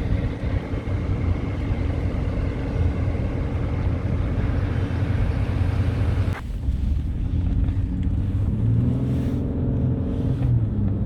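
Electric pit bike being ridden: wind rushing over the microphone with rolling road noise and a low drone. The sound changes abruptly about six seconds in, and after that the drone rises and falls a little.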